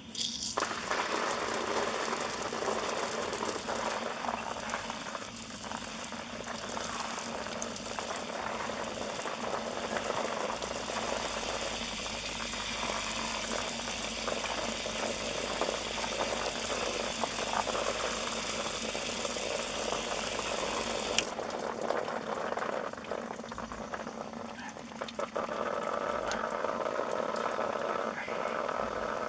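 Water spraying from a camper trailer's outdoor shower head: a steady rushing hiss. Its brightest, hissiest part drops away about two-thirds of the way through, leaving a softer rush.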